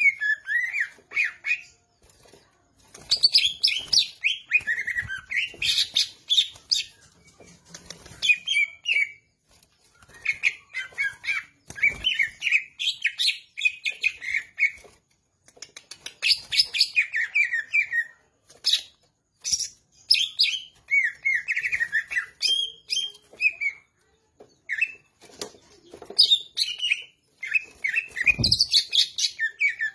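Green leafbird (cucak ijo) singing energetically, phrase after phrase of fast chirps and warbling notes with short pauses between. There is a brief low thump near the middle and another near the end.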